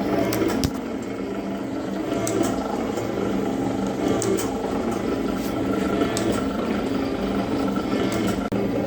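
Zocca 500 metal-working shaper running after repairs: a steady motor and drive hum with scattered sharp clicks as the ram strokes back and forth.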